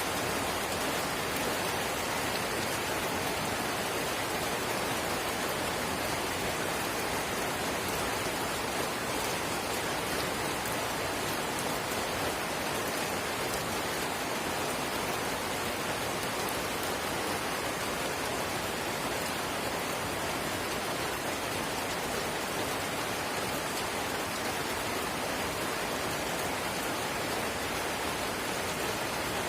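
Steady drizzle, light rain pattering evenly on surfaces.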